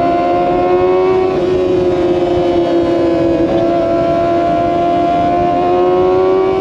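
Kawasaki ZX-25R's inline-four engine running high in the revs under way, its pitch climbing slowly through a gear, dipping at a shift about a second and a half in, then climbing again.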